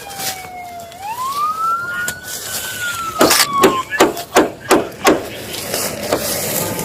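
A wailing vehicle siren glides down, climbs and falls again, dying out about four seconds in. From about three seconds in, a run of sharp knocks follows, several a second.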